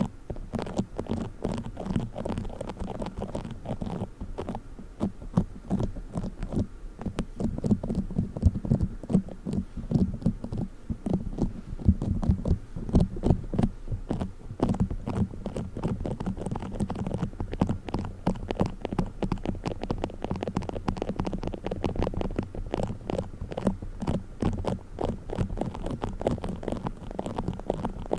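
Play foam being squished and kneaded with the fingers: a dense, continuous run of small crackles and squishes.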